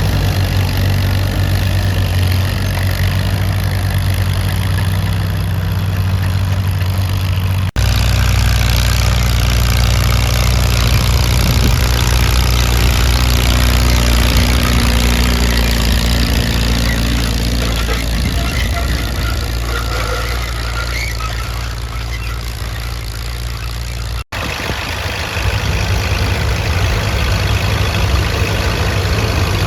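Antique tractor engine running steadily, a low even drone. The sound cuts off for an instant twice, about a third of the way in and again near the end.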